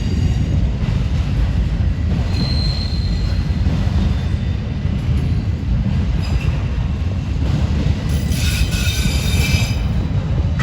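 Norfolk Southern manifest freight train rolling past with a steady, heavy rumble of wheels on rail. Wheels squeal briefly about two and a half seconds in, and a louder, higher squeal rises near the end for about a second.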